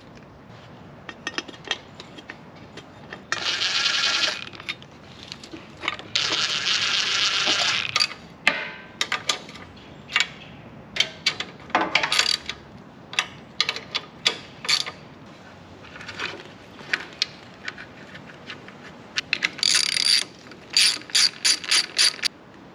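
Socket ratchet wrench clicking in runs as fasteners are turned on a small mower engine. There are two longer runs of rapid clicks in the first third, scattered single clicks, then a short burst and a quick series of clicks near the end.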